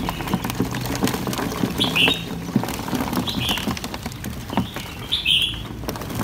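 A bird chirping four times in short, falling notes, over light scratching and clicking as baby green iguanas' claws scrabble on a plastic tub and a hand rummages through them.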